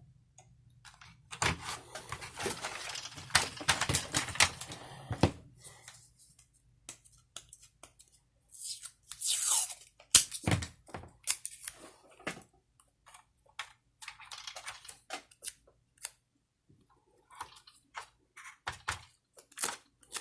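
Irregular handling noises of hands and tools working on small parts: clicks, scrapes and rustles. They come in a dense run in the first few seconds, then scattered clicks, with a sharp loud click about halfway through.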